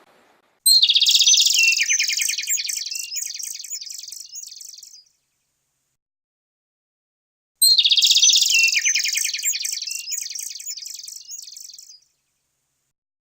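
A songbird singing a run of quick, high trills that lasts about four seconds and fades away, then the same song again about seven and a half seconds in, with dead silence between the two songs.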